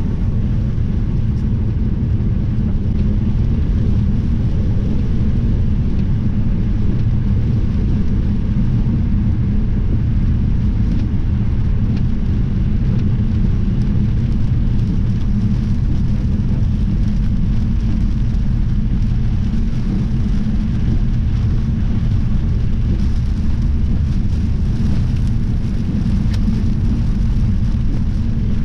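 Strong storm wind buffeting the microphone: a steady, loud low rumble.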